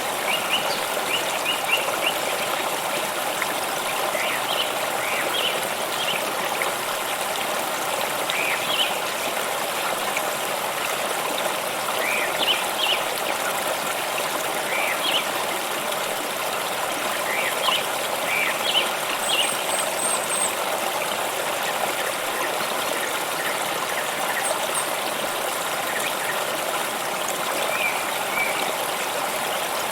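Flowing water stream running steadily over stones, with brief higher chirps scattered through.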